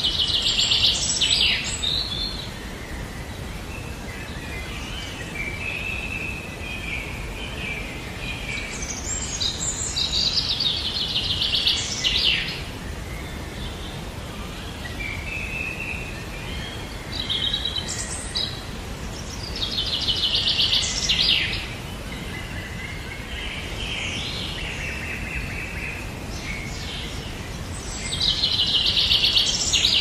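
A songbird singing: a loud, fast, trilled phrase about two seconds long, repeated roughly every nine or ten seconds. Softer notes come between the phrases, over steady low background noise.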